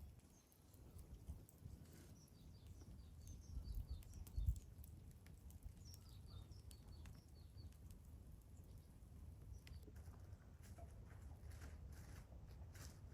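Faint birdsong: a small bird sings strings of short, high chirping notes, each stepping downward, with a soft low thump about four seconds in.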